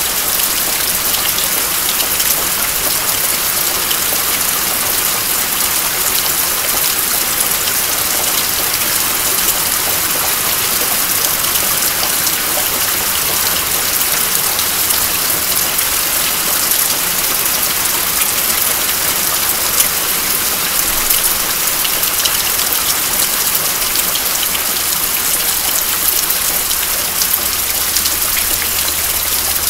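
Steady rain falling: an even hiss flecked with many small drop ticks.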